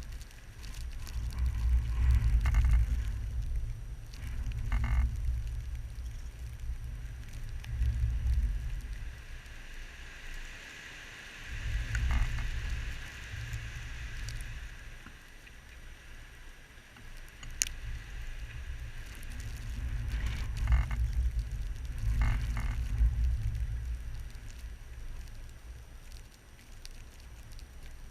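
Blizzard wind gusting in waves, buffeting the microphone with a deep rumble that swells and fades every few seconds, over a steady hiss. There is one sharp tick about two-thirds of the way through.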